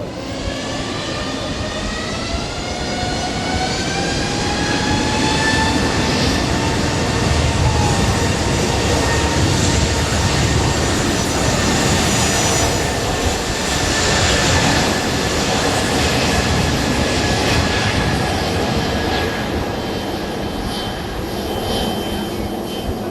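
Jet airliner engines spooling up with a rising whine that levels off, under a loud roar that builds to a peak around the middle and eases off near the end.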